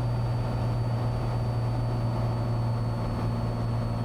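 Cessna 182T's six-cylinder Lycoming engine running at low ground power while the plane taxis or holds short, a steady low drone with a faint steady high-pitched whine over it.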